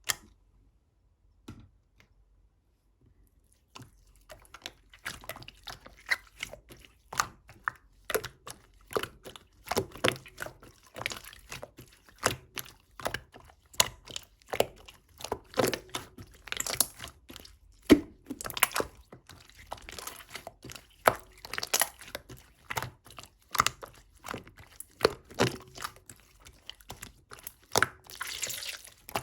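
Close-up handling noises: irregular clicks, taps and crunches, several a second, starting about four seconds in.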